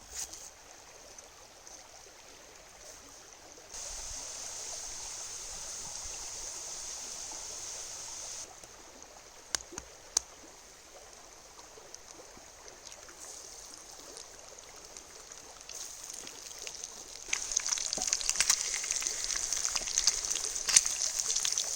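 Hash browns frying over a campfire: a steady hiss of sizzling with scattered crackles, louder for a few seconds near the start and loudest, with dense crackling, over the last few seconds.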